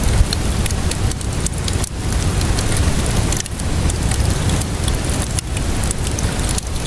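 Steady rainfall hiss mixed with the irregular crackles and pops of a wood fire burning.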